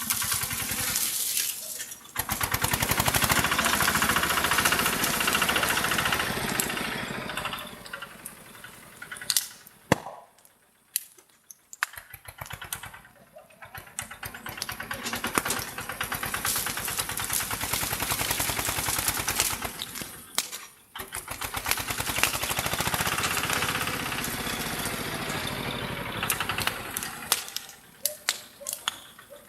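Tractor engine running in rapid even pulses, revved up and let down several times, dropping almost to nothing around ten seconds in and again briefly about two-thirds through. A few sharp cracks stand out near the low points.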